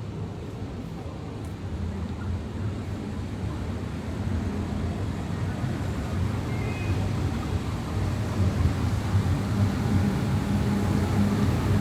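Car driving on the road: a steady low rumble of engine and tyre noise, growing louder over the last few seconds.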